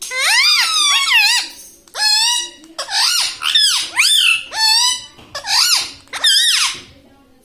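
Indian ringneck parrot calling: a rapid series of high, shrill squawks, each arching up and down in pitch, coming in quick bursts and stopping just before the end.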